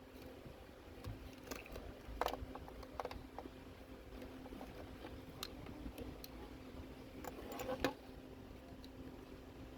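Scattered light clicks and taps of metal engine parts and hand tools being handled, at irregular moments, over a faint steady hum.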